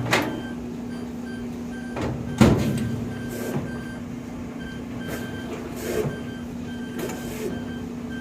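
GE GTW460ASJ5WW top-load washing machine beeping nonstop during a wash: short, evenly repeated high beeps over the steady hum of the running washer, with a few thuds, the loudest about two and a half seconds in. The constant beeping is a malfunction, which the owner ties to a load selector that no longer works.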